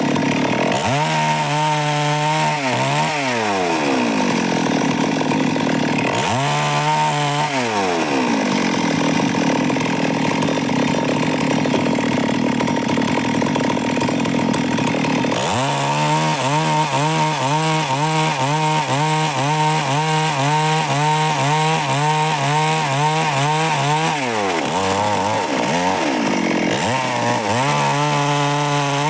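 Stihl MS 382 two-stroke chainsaw running at high revs while sawing timber, its engine pitch swinging down and back up several times.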